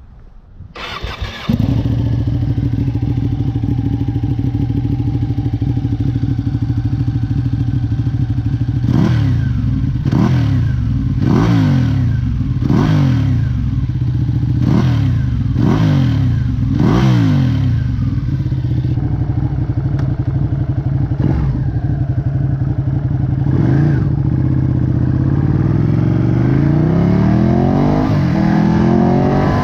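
Ducati Panigale 959's L-twin engine starting about a second in and settling into a steady idle. It is then revved in a run of about seven quick throttle blips, each rising and falling, with two more blips later and the revs climbing steadily near the end.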